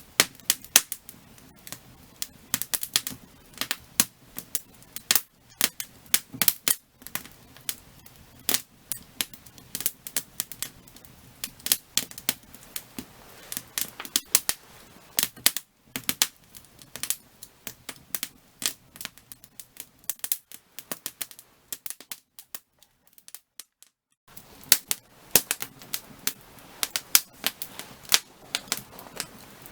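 Firewood burning, with dense irregular crackles and sharp pops. The crackling drops away almost completely for about two seconds roughly three-quarters of the way through, then resumes.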